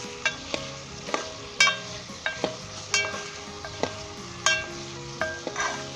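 A spoon stirring and knocking against a cooking pot while chicken, potatoes and boiled eggs fry in the masala, over a steady sizzle. There are about a dozen irregular knocks, several of them ringing briefly.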